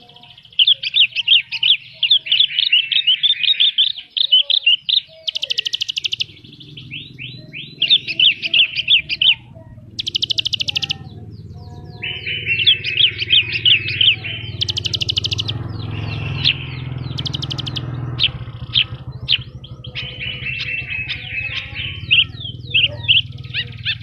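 Javan bush lark (branjangan) in full, nonstop song: fast runs of chirps and trills packed with mimicked phrases, broken by several short, very high buzzy rattles.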